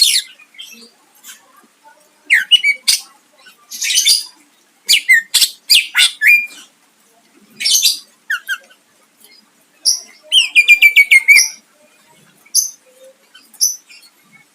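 Cucak ijo (greater green leafbird) singing: separate loud phrases of sharp, harsh calls and chirps. A little past halfway comes a fast trill of about a dozen notes, falling slightly in pitch.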